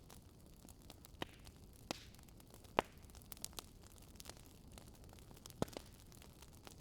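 Campfire burning: irregular snaps and pops of burning wood over a soft low hiss, with the sharpest pop a little before the middle and another past the middle.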